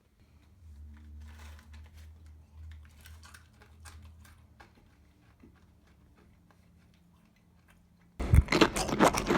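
Loud crunching of a crunchy snack mix being chewed, starting abruptly about eight seconds in after a few seconds of faint clicks and a low hum.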